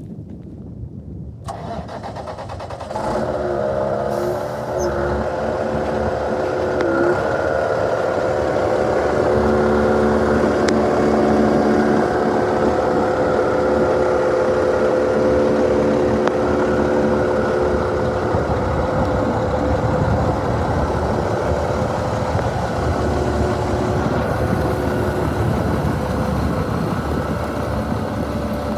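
Diesel engine of a 2005 International 8600 truck tractor starting up about three seconds in; the engine speed wavers briefly, then it settles into a steady idle.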